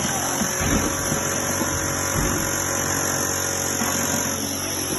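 Powered breaching tool running steadily while breaking through a concrete wall, with a few irregular low thuds about a second and two seconds in.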